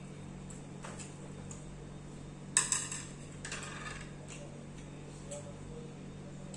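Eating utensils knocking against a dish: one sharp, ringing clink about two and a half seconds in, then a brief clatter and a few light ticks, over a steady low hum.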